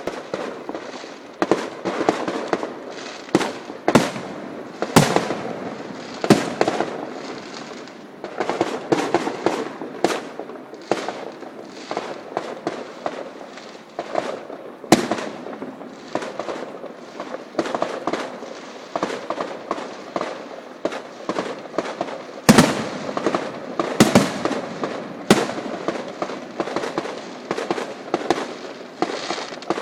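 Fireworks display: repeated sharp bangs of exploding shells, with continuous crackling between them.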